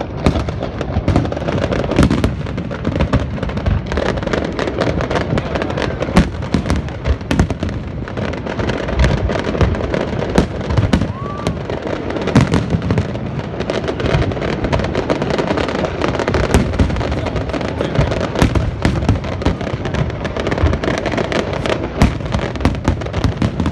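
Fireworks display going off as a continuous barrage: dense crackling with many sharp bangs and pops following one another without a break.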